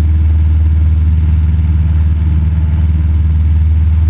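Cessna 172 Skyhawk's piston engine and propeller droning steadily in level flight, heard from inside the cabin as a loud, even, low hum.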